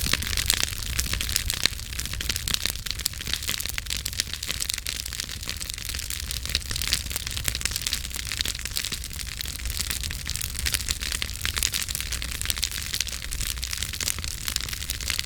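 Wood campfire burning, with a dense, irregular run of sharp crackles and pops over a steady hiss and a low rumble underneath.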